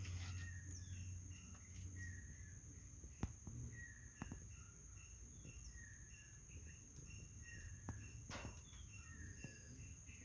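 Faint outdoor ambience: a bird calling in short chirps repeated every second or so, over a steady high insect drone, with a few faint clicks.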